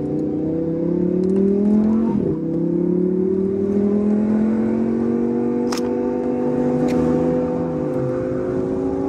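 Chevrolet Camaro's turbocharged four-cylinder engine pulling under steady acceleration, its pitch slowly rising, heard from the open cabin with wind and road noise. A sharp click about six seconds in.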